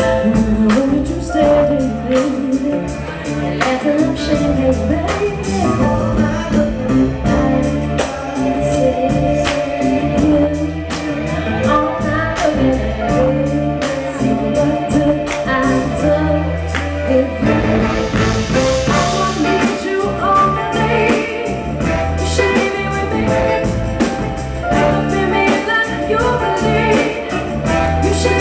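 Live soul band playing with a steady drum beat, bass and guitar, with singing over the top.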